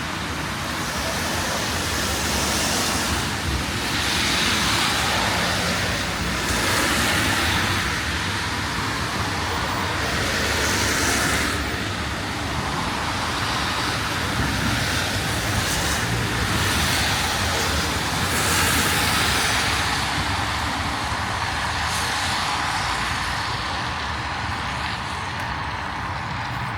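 Street traffic on wet roads: cars passing one after another, their tyre hiss swelling and fading several times over a steady background of noise.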